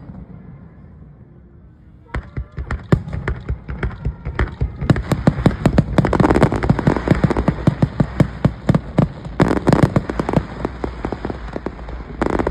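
Aerial fireworks: after a fading tail, a dense run of rapid crackling pops and bangs starts about two seconds in and grows thicker around six seconds in.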